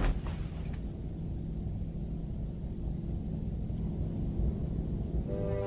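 Low, steady background rumble from an animated soundtrack, with a sharp knock right at the start. Sustained music notes come in near the end.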